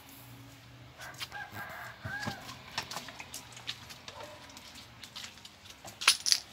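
A short bird call with a rising-and-falling pitch between one and two and a half seconds in, over scattered light taps and clicks. A couple of sharp knocks near the end are the loudest sounds.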